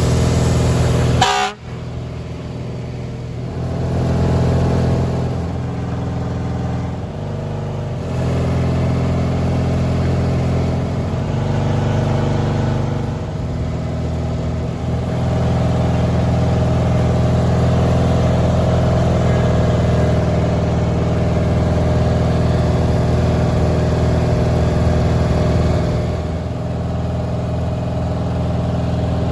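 Small engines of riding lawn mowers and garden tractors running, their pitch shifting now and then. The sound cuts off abruptly about a second and a half in and resumes.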